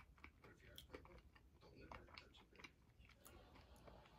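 Faint close-up chewing of a mouthful of fried chicken sandwich, a scatter of soft short mouth clicks over a low room hum.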